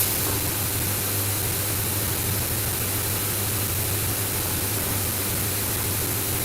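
Steady hiss with a low hum underneath, like a fan or machinery running, even in level with no breaks.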